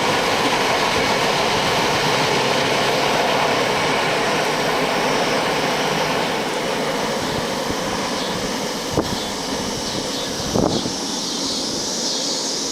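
Train running past on the tracks: a loud, steady rail rumble that eases a little after about six seconds, with two short sharp sounds near the end.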